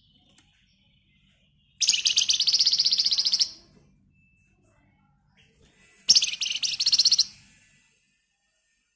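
A Flamboyan songbird (wergan Jawa) giving two dense, rapid rattling trills, 'ngebren rapat', the first about a second and a half long and the second shorter, a few seconds apart.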